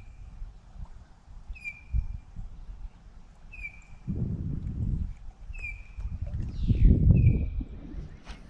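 A bird calling over and over, a short note repeated about every two seconds. Two spells of low rumbling noise come in partway through, the second one the loudest.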